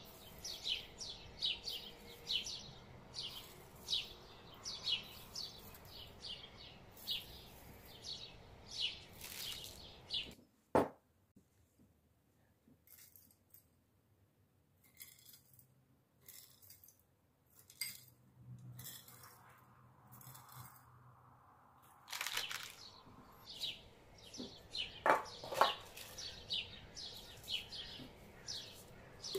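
A small bird chirping in quick, repeated short calls. After a sharp click it goes nearly quiet for about ten seconds, then the chirping starts again.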